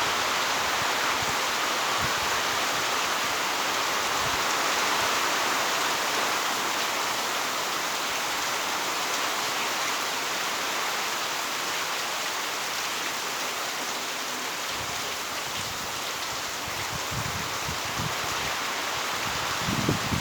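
Heavy rain falling steadily, an even dense hiss, with a few short low bumps near the end.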